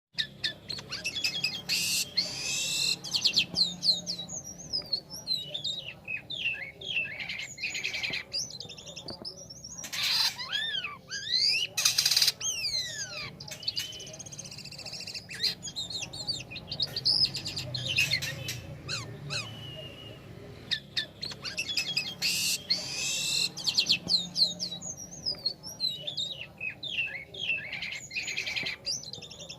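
Jalak kapas starling singing energetically: a varied run of whistles, up- and down-sweeping notes and chattering phrases in repeated bursts.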